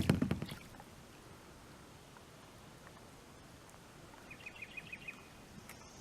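A single knock against the boat at the start, then faint quiet outdoor ambience. About four seconds in, a short trill of rapid high chirps, like a bird or insect, sounds for under a second.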